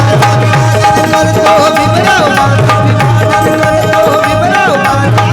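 Instrumental interlude of a Marathi Bhimgeet song: a melody instrument plays gliding phrases over sustained tones, with tabla and drums keeping a steady rhythm.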